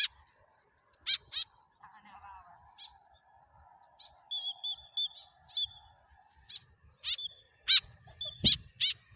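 Tame white-breasted woodswallow (kekep) calling: a dozen or so short, sharp chirps at irregular intervals. Several run together into a brief chatter about four to five seconds in.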